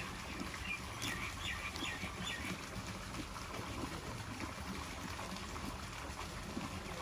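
Small birds chirping a few short calls about a second to two and a half seconds in, over steady low background noise.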